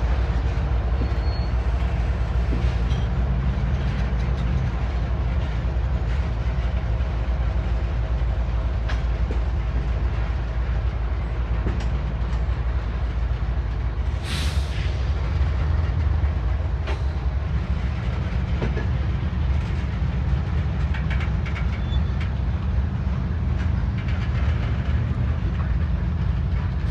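Freight train's cars rolling past on the rails, a steady low rumble with occasional sharp clanks.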